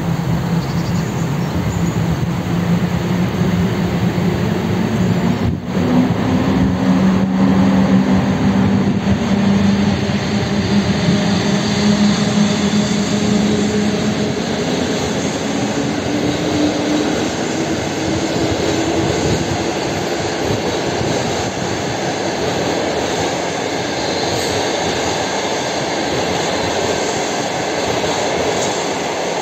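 Electric-hauled passenger train passing at speed: a steady rush and rattle of coach wheels on the rails with a low hum. It is loudest from about six to twelve seconds in and eases a little as the last coaches go by.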